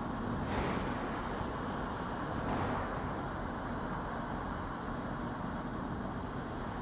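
Car driving along a road: steady tyre and engine noise, with two brief swells of hiss about half a second and two and a half seconds in.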